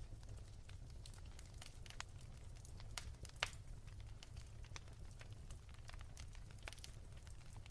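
Wood fire crackling softly, with irregular small pops and one sharper pop about three and a half seconds in, over a low steady rumble.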